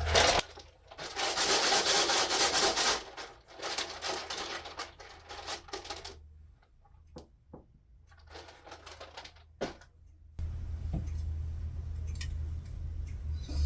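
A handful of dice rattled and clattering, then a few scattered clicks as they tumble and settle on a table.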